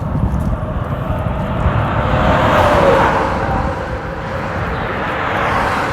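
A road vehicle passing, its sound swelling to a peak about three seconds in and then fading, over a steady low rumble.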